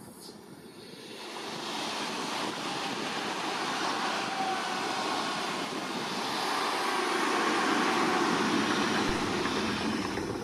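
A train passing on the line, with a steady rolling noise of wheels on rails that builds over the first couple of seconds and eases off near the end.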